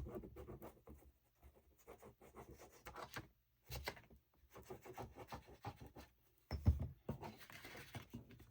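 Brittle vintage paper rustling and scraping as it is folded over a journal cover and rubbed down by hand, in many small irregular crackles, with one soft thump about seven seconds in.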